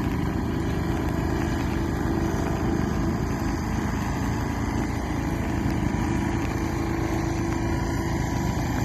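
Small diesel generator engine running steadily as a canoe's inboard motor, with an even low pulsing beat.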